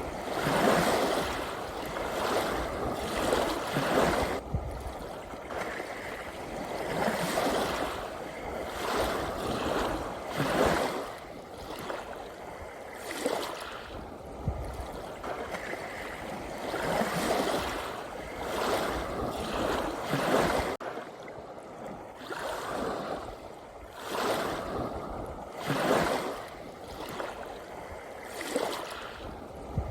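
Gentle ocean waves washing and splashing in irregular surges every one to three seconds, over a continuous hiss of moving water.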